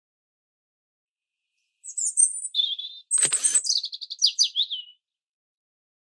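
Bird chirps: a quick run of high notes starting about two seconds in, a brief rushing noise in the middle, then a few falling chirps that end about five seconds in.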